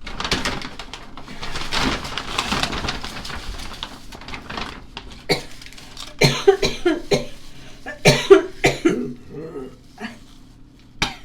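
A man coughing in a series of hard coughs, with a burp forced out in the middle of the coughing.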